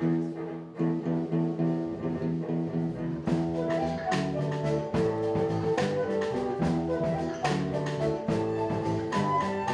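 Instrumental passage by a live art-rock band: sustained pitched instrumental notes, with the drum kit coming in about three seconds in and playing a steady beat.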